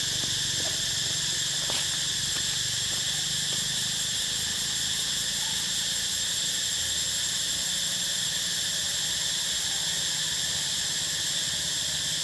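Chorus of insects giving a steady, unbroken high-pitched buzz, with a faint low hum under it.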